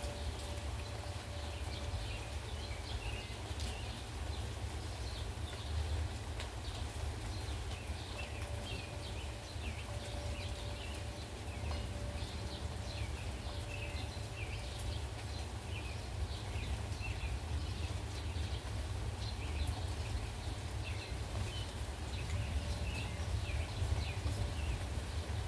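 Low steady wind rumble and an even hiss, with a bird chirping over and over, short high chirps about two a second.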